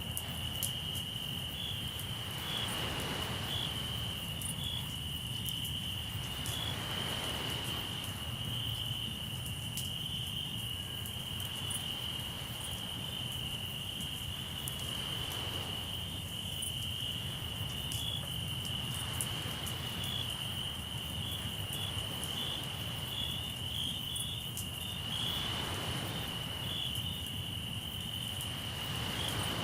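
Crickets trilling steadily and high, with a campfire crackling in scattered sharp snaps. Waves wash in as soft swells of noise every few seconds.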